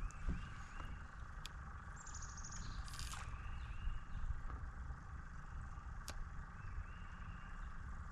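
Small birds chirping in short calls, with one quick trill, over a steady low rumble. A couple of sharp clicks stand out.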